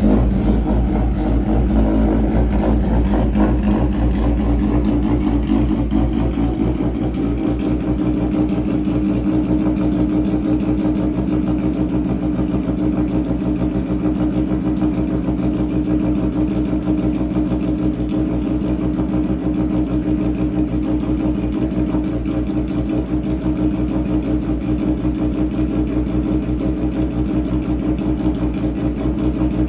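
A 2000 Suzuki Hayabusa's freshly installed inline-four engine, just started and idling. It runs a little faster and rougher for the first few seconds, then settles into a steady idle.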